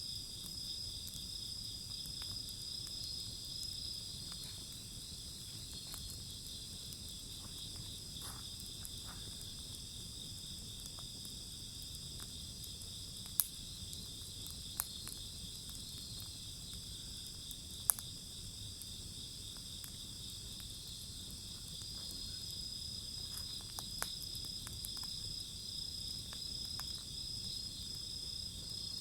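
Crickets chirping in a steady, continuous chorus, with a few sharp pops from the burning wood fire about halfway through.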